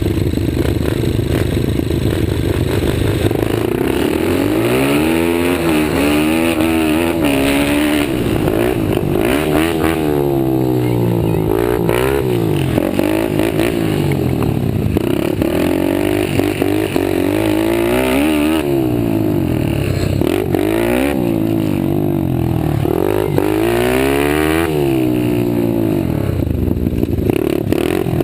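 Stock pit bike engines revving hard. Their pitch climbs and falls over and over with throttle and gear changes, and at times more than one bike is heard at once.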